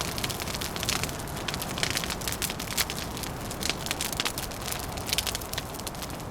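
Wood fire crackling, with frequent sharp pops and snaps over a steady low rush of wind.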